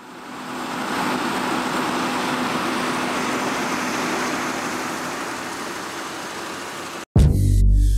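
Combine harvester running steadily, a broad even machine noise with a faint steady hum, fading in at the start. About seven seconds in it cuts off and loud music with a heavy bass beat starts.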